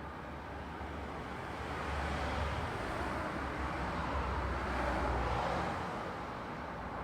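Road traffic: a steady hiss of tyre and engine noise over a low rumble, swelling as a vehicle passes over the middle few seconds, then easing a little.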